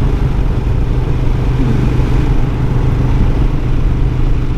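Motorcycle ridden at a steady speed, its engine running evenly under a constant rush of wind on a helmet-mounted camera.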